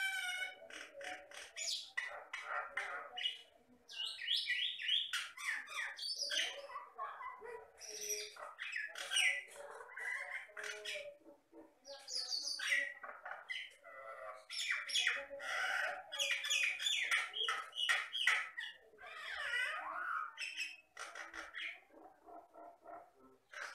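Common myna (Jalak Batam) singing a long, varied song of gliding whistles, chattering and rapid click-like notes, with only brief pauses.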